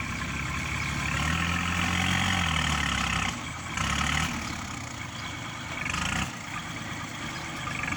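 Diesel engine of heavy earthmoving machinery running, speeding up about a second in and dropping back, with shorter surges a few times after.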